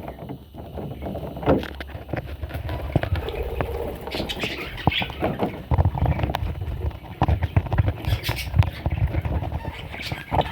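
Budgerigar chicks calling with short high chirps, amid scuffling and clicking from movement close to the microphone.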